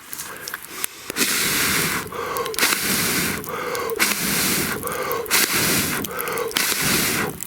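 A person blowing hard on a smouldering campfire to kindle it: about five long puffs of breath with short pauses between them for air.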